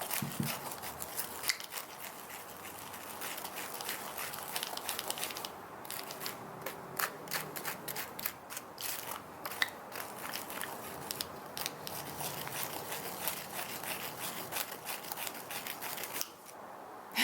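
A small plastic spoon scraping and clicking against a small plastic tray in quick, irregular strokes, stirring a powdered candy mix with water.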